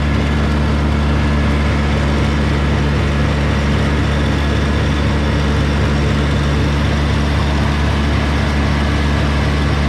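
Kubota BX2200 compact tractor's three-cylinder diesel running steadily at high throttle, driving its PTO rear tiller.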